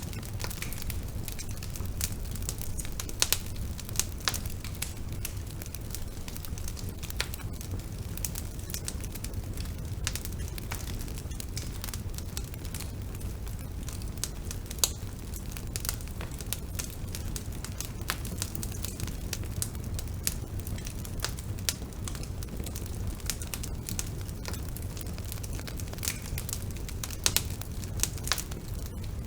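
Bonfire burning with a steady low rumble and constant crackling, with sharp louder pops now and then.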